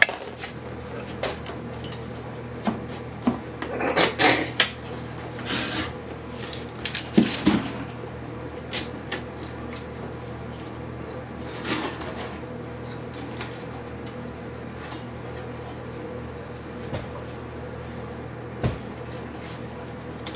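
Intermittent metallic clinks, knocks and scrapes of hand tools and metal parts being handled while an old wire recorder is taken apart. The sounds come in a cluster through the first half and are sparser later, over a steady low hum.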